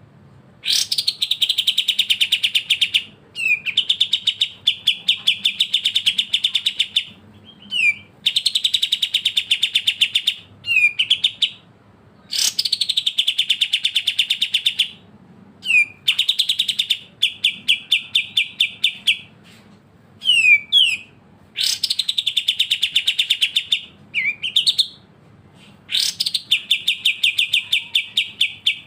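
Leafbird (murai daun) singing: phrases of rapid, evenly repeated chirps, each a few seconds long, broken by short pauses and quick sweeping notes.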